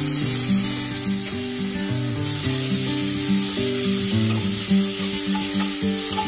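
Onions and spices sizzling in hot mustard oil in an aluminium pressure cooker as they are stirred, with background music playing a stepping melody over it.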